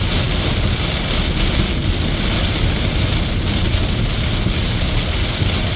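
Heavy rain beating on a car and tyres running on a flooded highway, heard from inside the cabin as a steady, loud wash of noise over a low road rumble.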